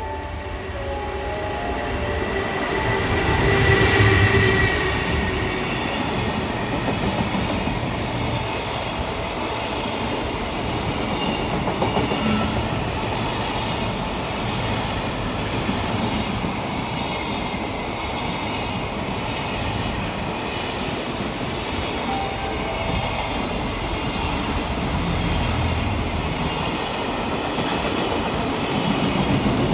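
A long container freight train passing a station platform without stopping. The locomotive's approach peaks about four seconds in, then the container wagons go by with a steady rumble and the regular clickety-clack of wheels over the rail joints.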